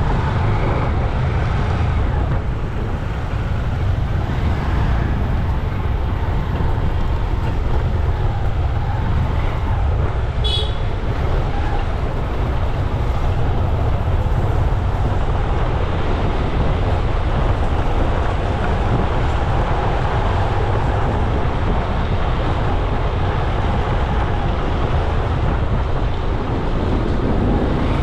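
Steady road traffic noise with a heavy low rumble, and a brief high-pitched horn toot about ten seconds in.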